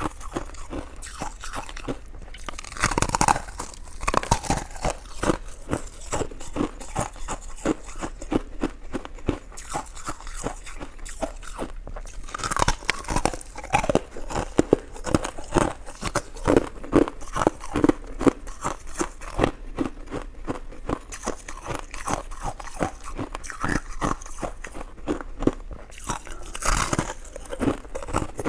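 A person chewing and biting coconut sticky rice cake close to the microphone: a dense, continuous run of small mouth clicks and smacks, with louder bites about three seconds in, around twelve seconds and near the end.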